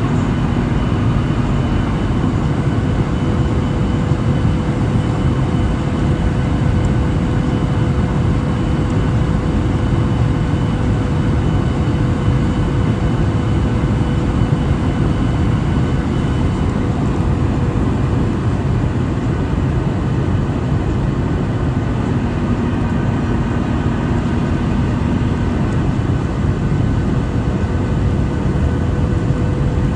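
Boeing 737-800 in flight, heard from inside the passenger cabin: the steady rush of its CFM56 jet engines and air streaming past the fuselage, with a faint constant whine in it.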